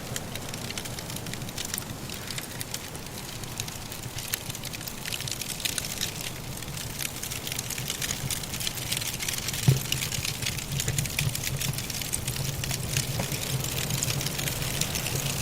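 Wood fire in a fireplace crackling with a steady stream of small snaps, and one louder pop about ten seconds in. Under it runs a low, steady rumble of soft blizzard wind.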